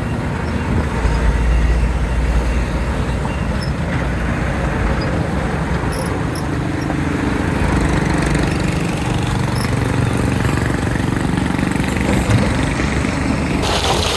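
Komatsu D31P crawler bulldozer's diesel engine running at work, a steady low rumble that is strongest about a second in. Just before the end a hissing noise cuts in over it.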